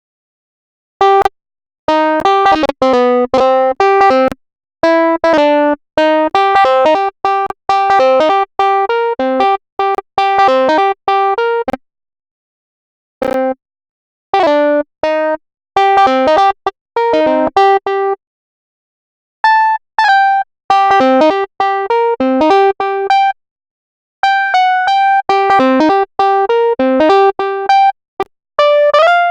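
Electric-piano-like keyboard melody of short, quick notes playing in phrases. Each phrase cuts off abruptly to dead silence: about a second in, near 12 s, near 18 s and near 23 s.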